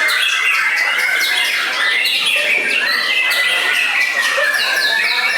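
Several white-rumped shamas (murai batu) singing at once: a dense, unbroken tangle of quick whistled sweeps and harsh chattering notes.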